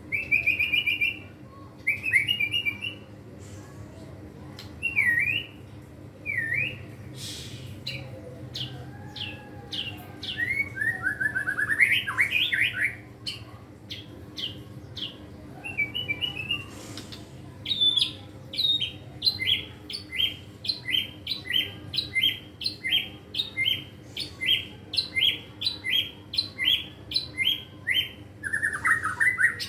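White-rumped shama singing a varied song of whistles, trills and gliding phrases, the bird showing off its repertoire of learned, mimicked phrases. In the second half it delivers a long run of short sharp notes, about two a second.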